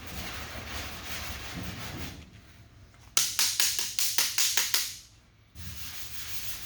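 Sanding block rubbing back and forth over lacquer primer on a car body panel, then a quick run of about ten loud, sharp taps over roughly two seconds, and the sanding starts again near the end.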